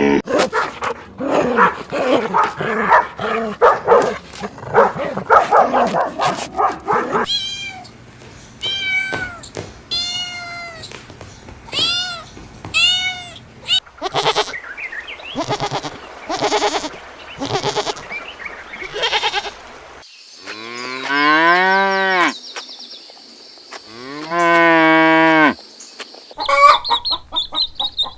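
A run of different farm animal calls one after another, ending with two long, loud cattle moos of about two seconds each.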